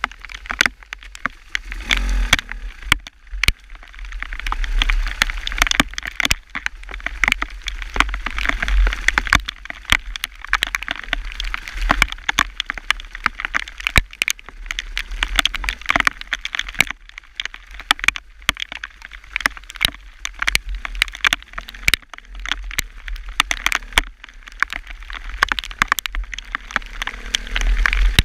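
Hail pelting the camera in dense, sharp ticks, over a steady hiss and a low wind rumble on the microphone.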